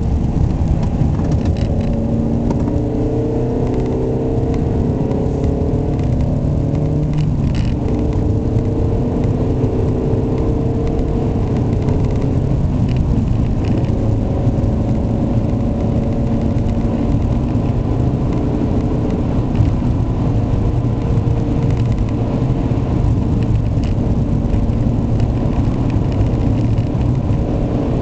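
Ford Mondeo Estate's 1.6-litre, 125 hp petrol four-cylinder engine pulling on the road, its pitch rising over the first several seconds, dropping suddenly about seven seconds in, then running fairly steadily over road rumble. The owner finds this engine very noisy and reluctant to rev.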